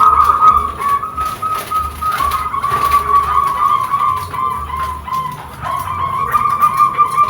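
Perkutut (zebra dove) cooing: a long, nearly unbroken run of quick trilled notes around one pitch, wavering slightly with short breaks.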